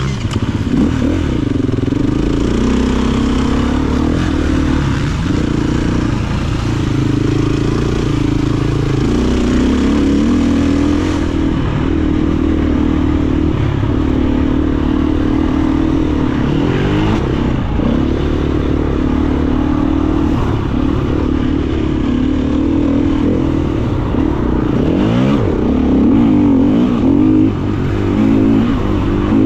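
KTM EXC-F 350 four-stroke single-cylinder enduro motorcycle engine under way, its revs rising and falling again and again as it is ridden hard.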